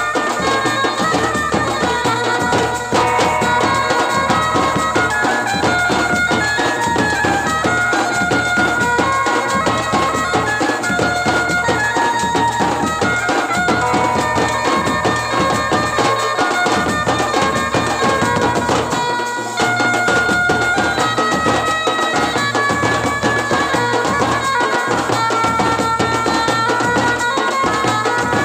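Traditional folk music: a reedy wind instrument plays a held, wavering melody over steady drumming.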